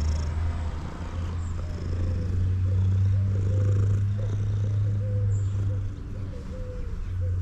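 Male domestic cat purring loudly: a steady, pulsing low rumble that swells in the middle and eases about six seconds in.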